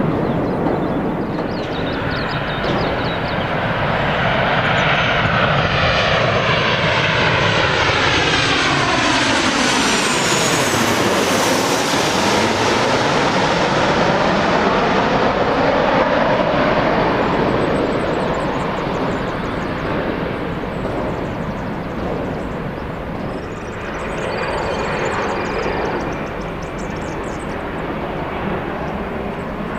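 Jet airliner on approach to land passing close overhead, its engine noise swelling and sweeping past with a whooshing tone that falls and then rises again about ten seconds in, then running on as it moves away.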